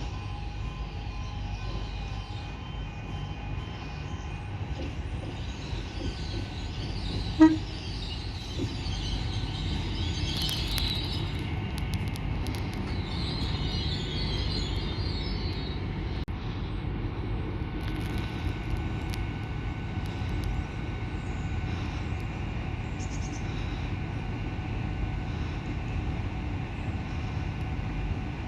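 A train running with a steady low rumble, with one short horn toot about seven seconds in and a higher hissing sound for a few seconds around the middle.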